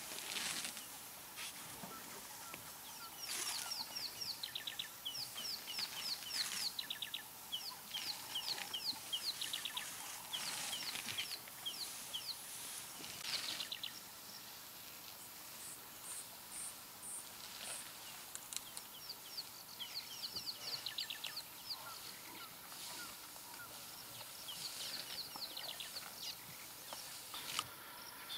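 Wild birds calling: runs of quick, high, falling notes, repeated over and over, with a pause in the middle before they start up again.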